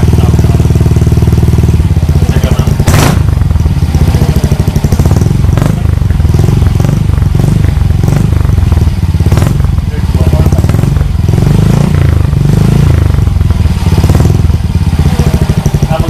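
Yamaha Mio Soul i125 scooter's single-cylinder engine running loudly through an aftermarket MT8 V3 exhaust: steady at first, then the throttle is blipped several times, the exhaust note rising and falling.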